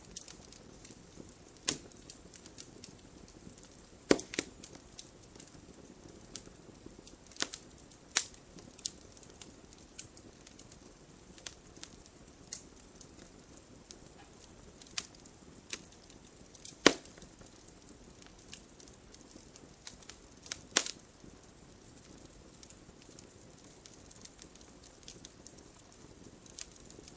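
Wood fire crackling: a soft steady hiss with irregular sharp pops and snaps, a few louder pops standing out.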